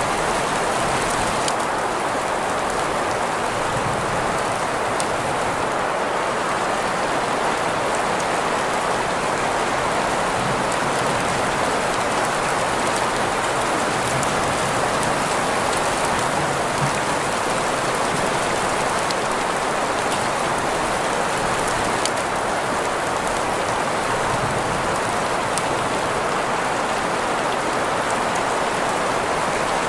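Steady rain sound blended with green noise, an even hiss strongest in the middle range with faint scattered drop ticks, unchanging throughout.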